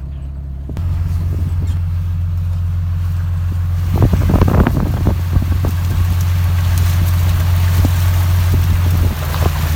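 Truck engine running with a steady low drone that steps up about a second in, with scattered knocks and a burst of rattling near the middle.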